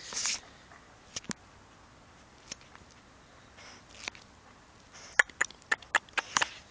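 Horse blowing a short breath through its nostrils, followed by scattered sharp clicks and a quick run of clicks near the end.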